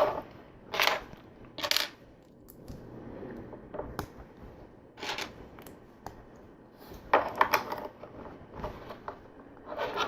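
Plastic LEGO bricks being handled: several short bursts of pieces clattering and clicking together, with smaller clicks in between.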